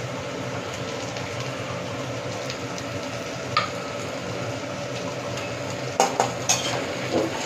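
Onions, capsicum and ginger sizzling steadily in an iron wok over a high gas flame. A metal spatula clicks once against the wok about halfway through, then knocks and scrapes against it several times near the end as the vegetables are stirred.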